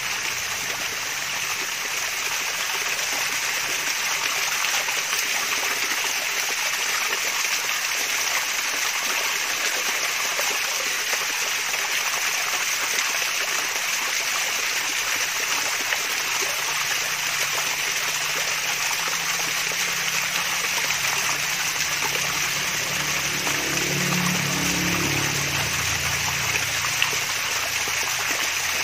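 Water from a small waterfall trickling and splashing steadily, a continuous babbling flow.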